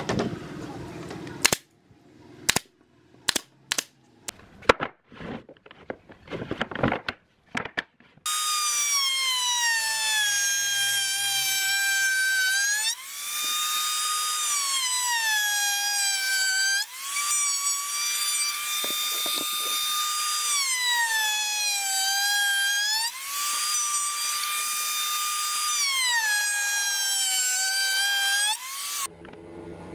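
A few seconds of scattered knocks and clicks. Then an electric drill runs continuously, its high whine sagging in pitch and recovering about five times as it is loaded into the wood and eased off.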